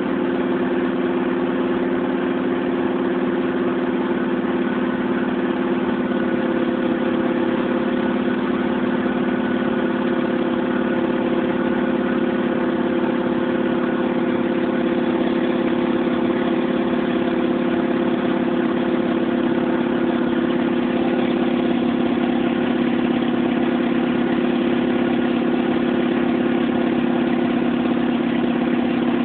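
1996 Mitsubishi Eclipse's 420A 2.0-litre four-cylinder engine idling with a steady, unchanging note. Its idle, bogging and limp-mode problems persist after a new MAP sensor, crank sensor, coil pack and plugs.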